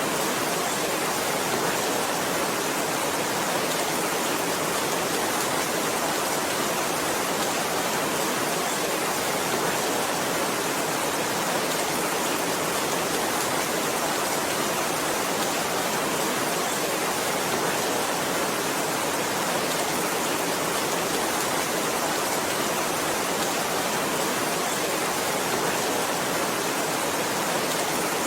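Heavy rain falling as a steady, even hiss, with no single drops or other events standing out.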